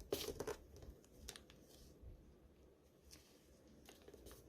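Faint rustling and crackling of origami paper being folded and creased by hand, a few soft crackles in the first half second and a couple more later.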